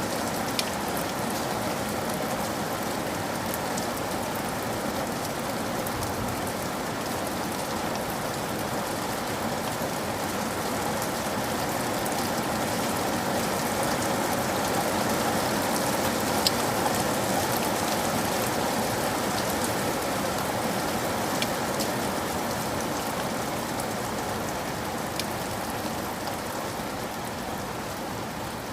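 Steady rain falling on hard surfaces, a dense even hiss with a few sharper drips now and then, swelling a little in the middle.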